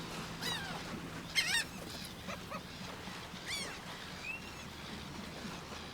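Wild animal calls over a steady natural ambience: a few short, sharply pitched calls, the loudest about a second and a half in, with another around three and a half seconds and a brief thinner call after it.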